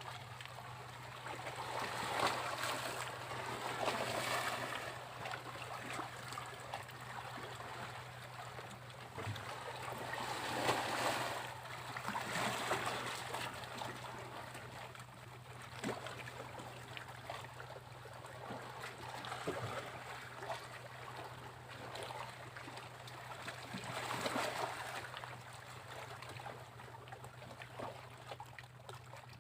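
Sea waves breaking and washing up a beach, in slow surges: one swells early, a bigger one comes near the middle, and another comes near the end, with trickling and fizzing water in between.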